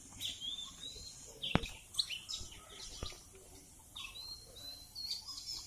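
Birds chirping in short calls, with two sharp knocks, about a second and a half in and again about three seconds in.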